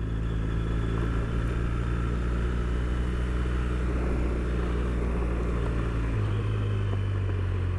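Triumph Bonneville parallel-twin engine running steadily under a light throttle, with tyre noise on a loose gravel road mixed in. The engine note changes about six seconds in.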